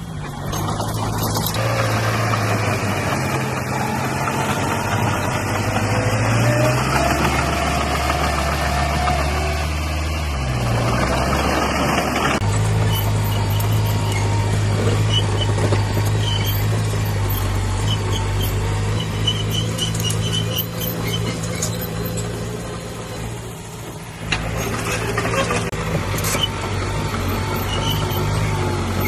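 Heavy diesel engine of earthmoving machinery running, its pitch shifting up and down as the load changes. The sound changes abruptly about halfway through and again near the end.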